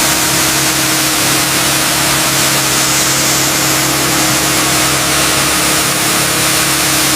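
Pressure washer spraying: a steady, loud hiss of the water jet over a constant motor-and-pump hum.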